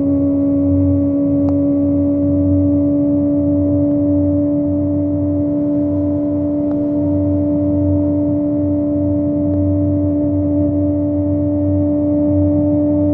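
Kawasaki ZX25R's inline-four engine with a Yoshimura exhaust holding steady high revs while cruising, its pitch creeping slightly upward, over a low rumble.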